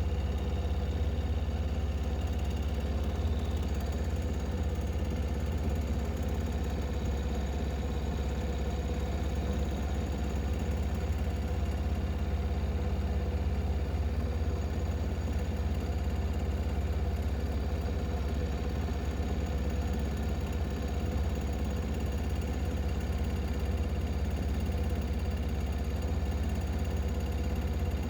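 An engine running steadily at an even speed, a constant low rumble with a steady hum above it.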